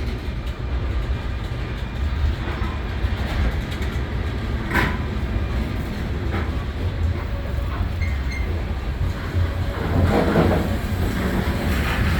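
Freight train with diesel locomotives: a steady low engine rumble, with a sharp clank about five seconds in and a louder rush of noise about ten seconds in.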